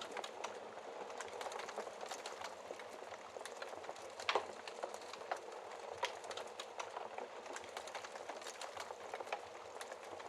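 Wood fire crackling in a fireplace: a steady hiss with frequent small pops and snaps, and one louder pop about four seconds in.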